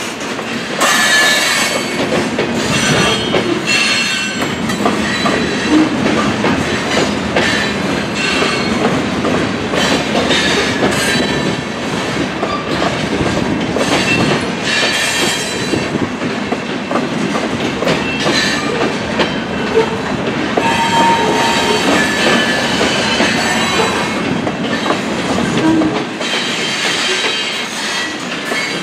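Loaded covered hopper cars of a freight grain train rolling past: a steady rumble of steel wheels on the rails, with repeated clicks as the wheels pass over rail joints and intermittent high squeals from the wheel flanges.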